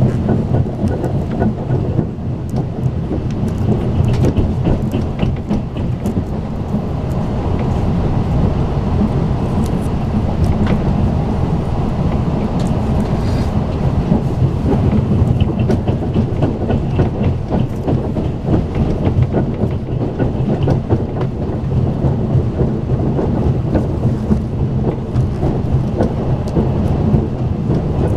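Talgo passenger coach running at speed, a steady low rumble of wheels on rail heard from inside the carriage, with scattered light clicks.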